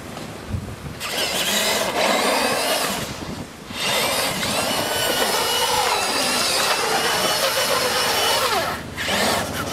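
Radio-controlled car's motor whining in bursts, its pitch rising and falling as the car speeds up and slows. The whine drops out briefly about a second in, around three seconds in, and near the end.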